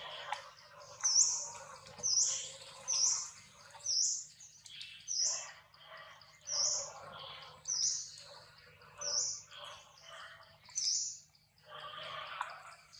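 A bird repeating a short, high chirp about once a second, with softer, lower chattering between the calls.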